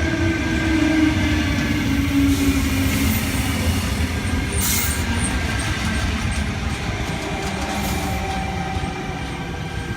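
Tangara electric suburban train pulling into the platform and slowing: a loud rumble of wheels with a motor whine that falls in pitch as it brakes, and a brief hiss about five seconds in.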